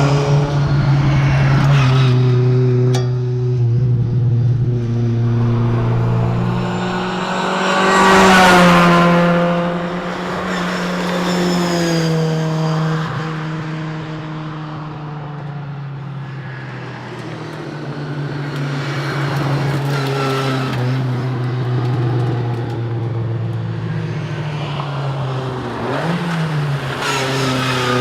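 Fiat 124 rally car's engine driven hard, its revs climbing and falling repeatedly through gearchanges. It is loudest about eight seconds in, and there is a quick blip of revs near the end.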